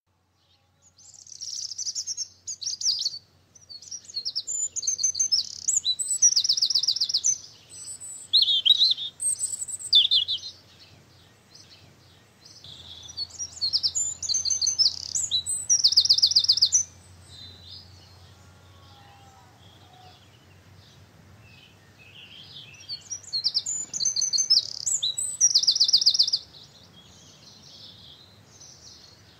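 Songbirds singing in rapid, high trilled phrases, in three bouts of several seconds each with quieter chirps between.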